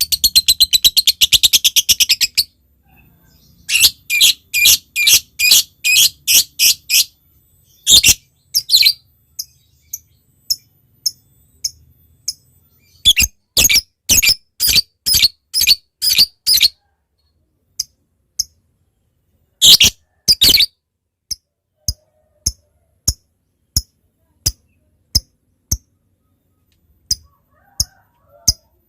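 Lovebird calling: a fast rattling chatter that stops about two seconds in, then runs of sharp, high chirps, about two or three a second, broken by pauses and scattered single ticks.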